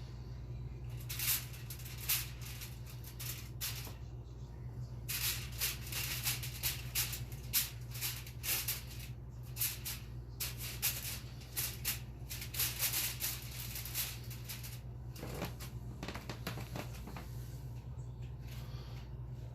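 Aluminum foil crinkling and rustling in irregular bursts as a cat walks and plays on it, dying away near the end, over a steady low hum.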